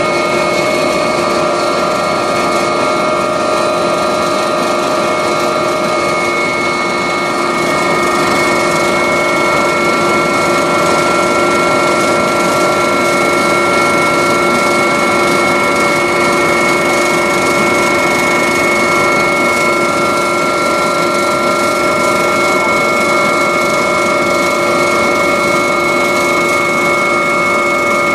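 Helicopter turbine and transmission running steadily, a loud constant noise with several high whining tones held at fixed pitch.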